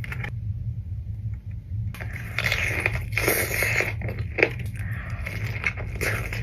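Close-miked eating: crunchy biting and chewing, starting about two seconds in, with crackling and sharp clicks, over a steady low background hum.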